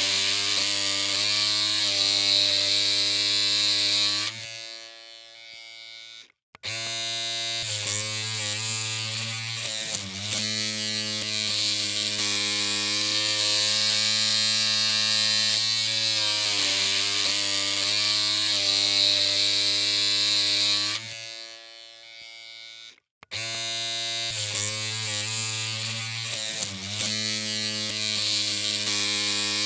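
Electric hair clippers running with a steady, buzzing hum. The hum fades out about four seconds in and stops, then starts again a couple of seconds later. The same happens again around twenty-one seconds in. The pitch wavers briefly a few seconds after each restart.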